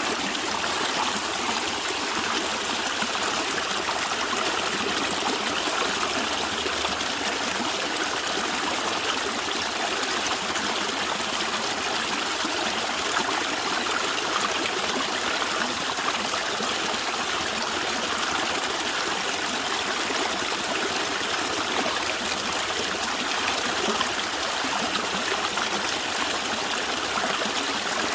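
Stream water flowing and gurgling steadily, an even rushing trickle with no breaks.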